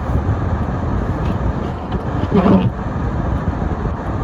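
Car driving on a snowy road: a steady low rumble of engine and tyres, with one short higher-pitched sound a little past halfway.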